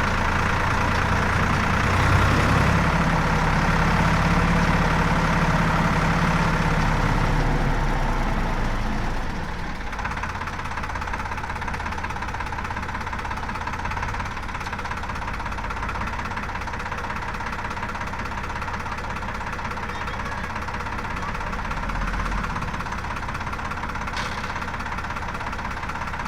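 Diesel engine of heavy machinery running steadily, louder and working harder for about the first nine seconds with a brief rise about two seconds in, then dropping back to a quieter, even running.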